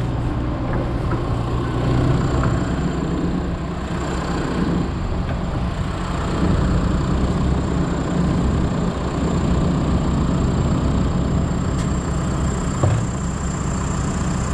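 Heavy diesel engine running steadily, its note shifting slightly a couple of seconds in, with a single knock near the end.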